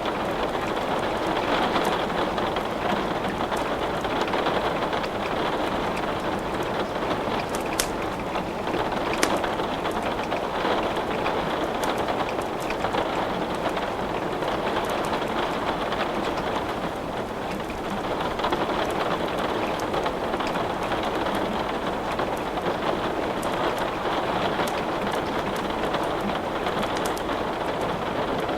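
Steady rain falling, a dense even hiss, with scattered sharp crackles and pops from burning wood in a fireplace.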